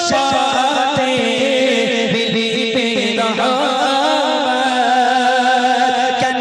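Bengali Islamic devotional song (gojol): a voice sings a long, wavering melodic line over a held drone and a steady beat.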